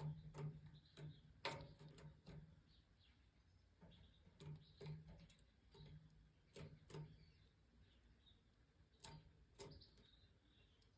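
Faint, irregular soft ticks and taps, about a dozen, with a few faint high bird chirps, from goldfinches in an aviary.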